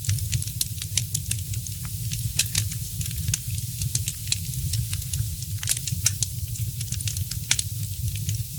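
Fireplace fire crackling: irregular sharp pops and snaps, several a second and some louder than others, over a steady low rumble.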